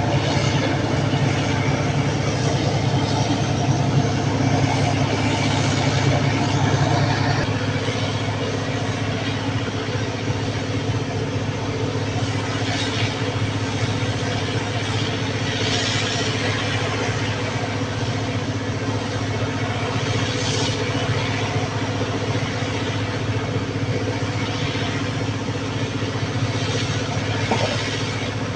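A large engine running steadily at a constant speed, dropping a little in level about seven seconds in.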